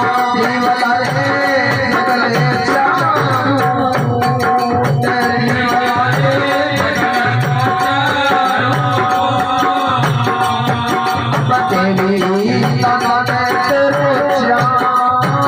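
Instrumental passage of a live Rajasthani devotional bhajan: a steady drum beat with jingling hand percussion under a sustained melody.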